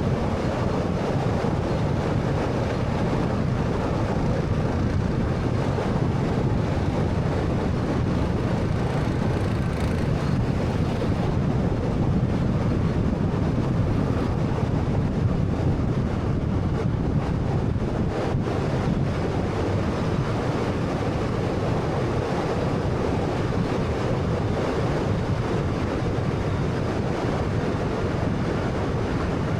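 Steady road and tyre noise of a 2013 Honda Fit being driven, an even low rumble with wind noise.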